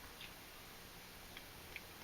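Near silence, with a few faint small clicks.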